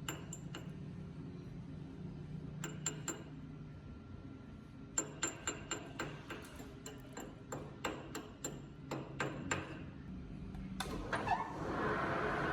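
Sharp metallic taps and clinks with a short ringing, like metal tools striking steel, come in a quick irregular run in the middle, over a low steady hum. Near the end a louder steady noise comes in.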